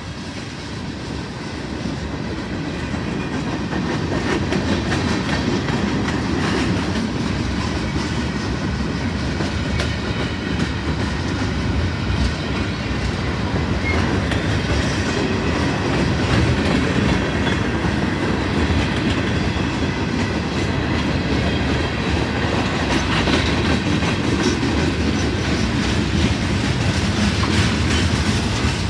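Freight train rolling past, its cars' wheels running over the rails. It grows louder over the first few seconds, then holds steady.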